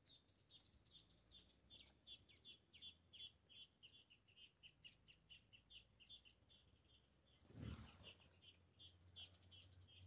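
Faint, fast run of short high chirps from small birds, about three a second. About three-quarters of the way in comes one brief louder whoosh as the feeding red-cowled cardinals fly off together.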